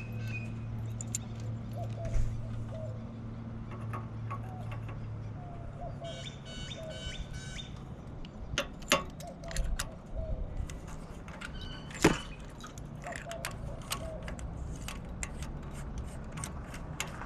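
Steady low mechanical hum that steps up in pitch about five seconds in, with birds chirping and several sharp clicks, the loudest about twelve seconds in.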